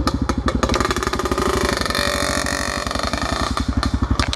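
Dirt bike engine running close by with a rapid, even beat, rising briefly in pitch around the middle as it is revved, then easing back.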